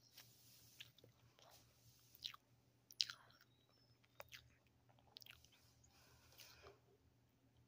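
A person chewing a mouthful of pancake close to the microphone: faint, scattered soft mouth clicks and smacks, the loudest about three seconds in.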